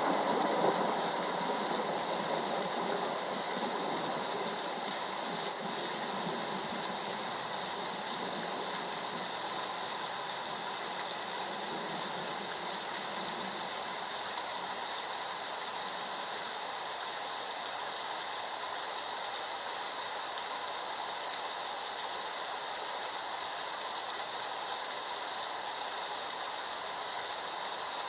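Heavy rain falling steadily as an even hiss. In the first second the last of a thunder roll dies away.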